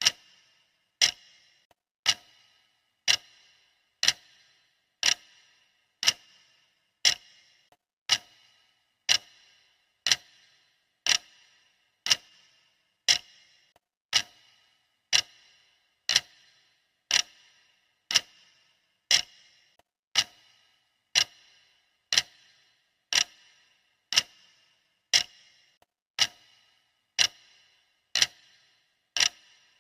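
Clock ticking sound effect: a steady, evenly spaced tick-tock of sharp clicks, repeating without a break.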